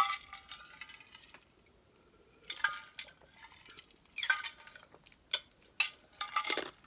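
A series of short clinks and clatters of small hard items being handled and set down, some with a brief ring, coming in separate groups with pauses between.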